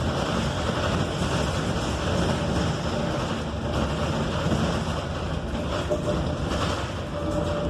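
Cabin noise of a 2020 Proterra Catalyst BE35 battery-electric bus on the move with its HVAC off: steady road and tyre rumble with light rattles, and a faint steady tone in the second half.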